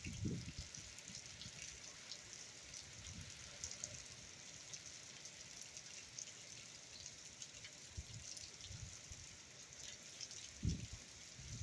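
Steady rain falling, with many small drop ticks over a constant hiss. Low gusts of wind buffet the microphone just after the start and again near the end.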